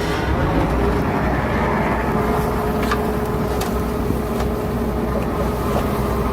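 Heavy diesel engine of earthmoving equipment running steadily, with a steady whine over the low rumble and a few faint clanks about three to four and a half seconds in.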